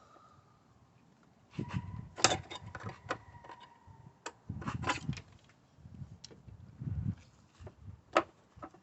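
Screwdriver clicking and knocking against the plastic electrical plug and surrounding engine parts while prying at the plug's locking clip to release it. The taps come irregularly and come in small clusters.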